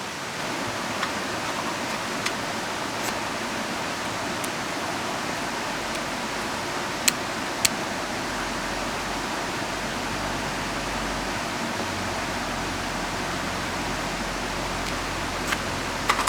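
A river flowing with rain falling: a steady rushing of water, broken by a few sharp ticks, two about halfway through and a cluster near the end.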